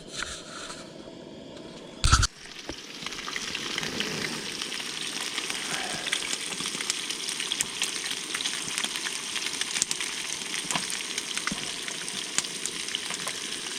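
Fish fillets frying in oil in a fry pan on a camp stove burner: a single knock about two seconds in, then steady sizzling with small crackles.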